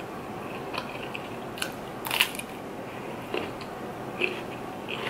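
Close-miked chewing of a mouthful of food: a string of short, irregular mouth clicks and crunches, the loudest a little over two seconds in.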